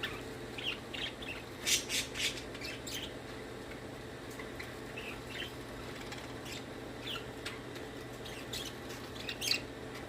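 Pet budgerigars chattering: short scattered chirps and squawks, with a few quick runs of calls, over a steady low hum.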